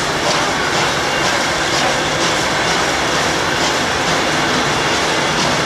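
Heritage steel passenger carriages rolling past at close range: a steady rumble of wheels on rails with regular clicks, about two a second, as the wheels cross rail joints.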